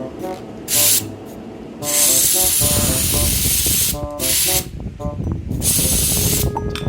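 Four hissing bursts of spray: two short, one long of about two seconds, and another of under a second near the end. Light background music plays underneath.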